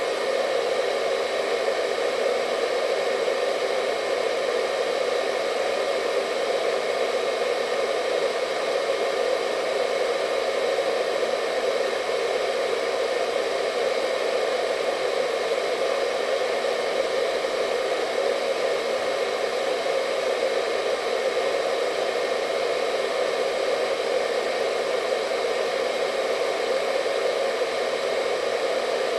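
Hair dryer running steadily: an even, unchanging rush of air and motor noise with a faint high whine on top.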